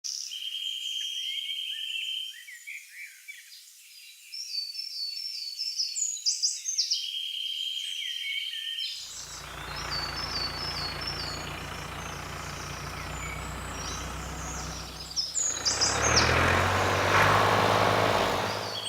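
Birds chirping in short repeated phrases with a steady high trill. About nine seconds in, a vehicle engine starts running underneath with a steady low hum, getting louder about six seconds later while the birds carry on.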